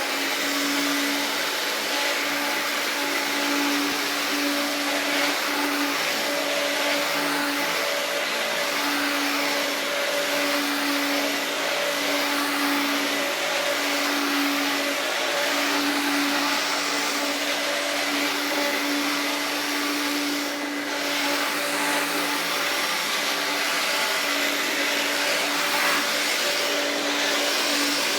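1984 Hoover Turbopower 1 U2198 upright vacuum cleaner running steadily: a constant pitched motor hum over a broad rush of air.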